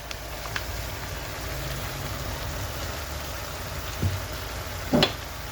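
Mixed vegetables frying in a pan with a steady sizzle, with a few light clicks and a short sharp knock near the end.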